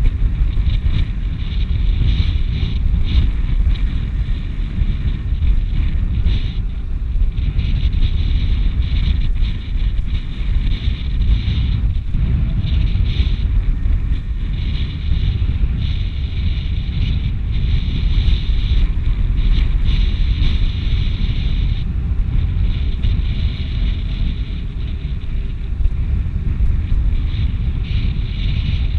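Strong wind buffeting the microphone: a heavy low rumble with gusts, and a hiss higher up that swells and fades.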